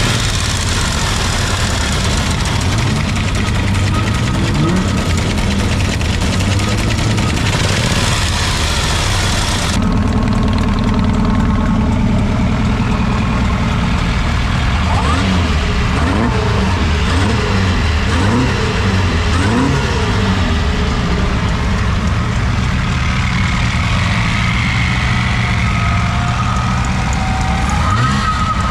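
Vintage prewar car engines idling and being revved, with pitch rising and falling; the sound changes abruptly about ten seconds in.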